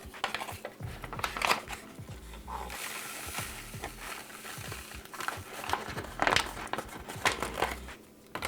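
Plastic beverage pouch and drink-mix packet crinkling and rustling by hand as sports-drink powder goes into the pouch, with a soft steady hiss for a couple of seconds near the middle.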